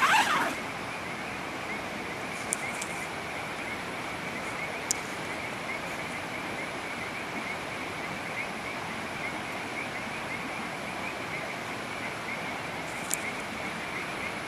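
Steady hiss of rain at night with a dense chorus of small high chirping calls running through it, and a few sharp clicks: one about two and a half seconds in, one about five seconds in, and one near the end.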